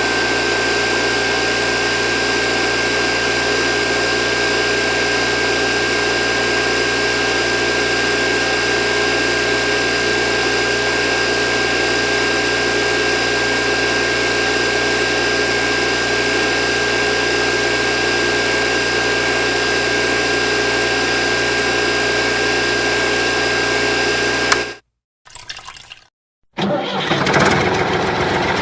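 Steady, unchanging engine-like running drone with a constant high whine. It cuts off abruptly near the end, and after a short gap a rougher running sound starts.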